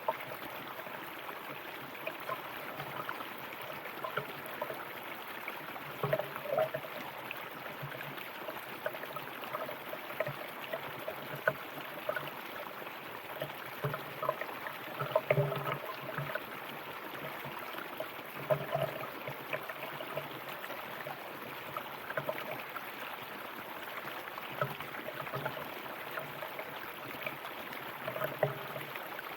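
River water running over stones, a steady rush with small gurgles and splashes coming and going.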